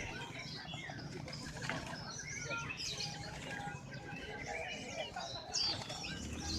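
Many caged songbirds chirping and whistling together in a dense, overlapping chorus, with one louder rising chirp about five and a half seconds in.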